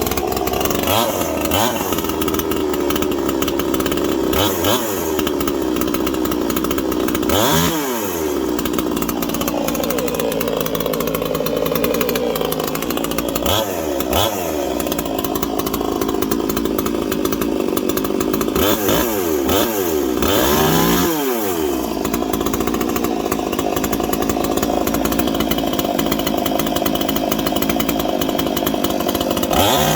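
Ported 45cc Chinese two-stroke chainsaw running on its first start since the ported cylinder was fitted, just fired up on choke with the throttle lock on. It runs loudly and steadily, its pitch dipping briefly and coming back up several times.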